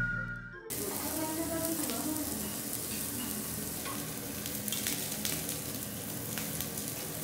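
Food sizzling and crackling as it fries in a pan: a steady hiss with small pops throughout.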